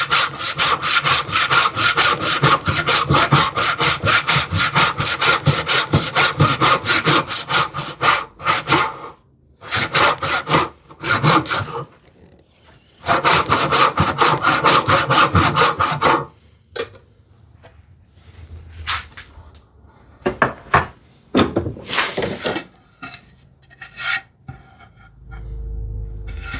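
Tenon saw rip-cutting a wide tenon cheek in quick, even strokes, about three to four a second, in three runs with short pauses; the saw is binding slightly because it cannot clear the sawdust from the wide cut. After about sixteen seconds the sawing stops, leaving a few scattered knocks of wood and tools being handled.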